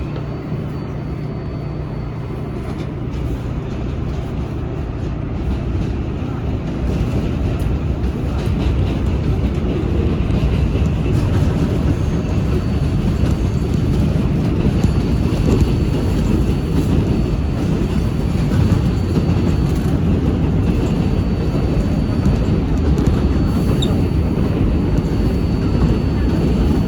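Interior running noise of an R188 subway car on the 7 line between stations: a steady rumble of wheels on rail. It grows louder over the first ten seconds or so as the train gathers speed, then holds level.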